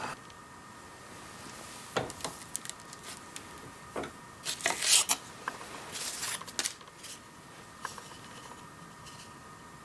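Hand tools and metal parts being handled and set up at a bench vise: scattered clicks and knocks, with two short scraping sounds near the middle, which are the loudest. A faint steady hum runs underneath.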